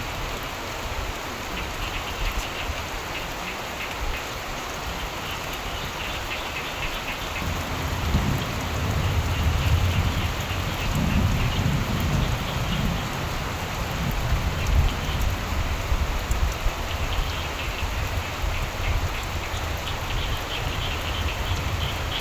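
Steady rainfall with frogs croaking in short pulsed trains that come and go. A low rumble of distant thunder swells about eight seconds in and fades some six seconds later.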